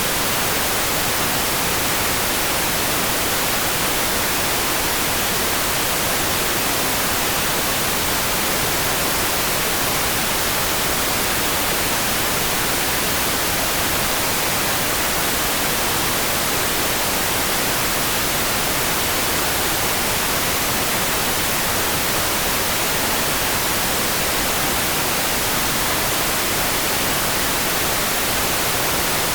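Steady, even hiss of a rain-for-sleep sound track, unchanging throughout, with no separate drops, thunder or other events standing out.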